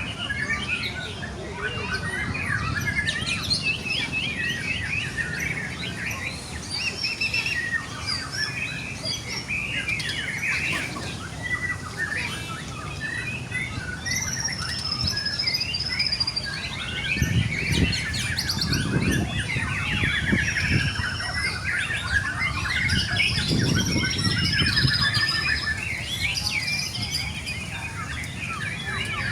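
Young white-rumped shama singing a continuous, varied run of whistles, trills and chirps, with other songbirds' song overlapping. There are low muffled rumbles partway through.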